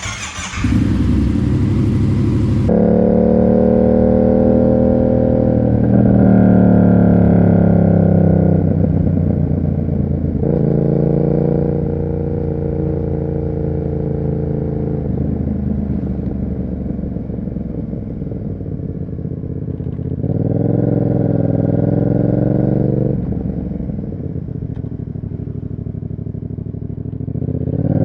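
Yamaha MT-07's parallel-twin engine breathing through an SC-Project aftermarket exhaust, pulling away and accelerating up through the gears, its pitch climbing and dropping back at each shift. It settles to a steadier cruise, then revs up again twice more, the last time near the end.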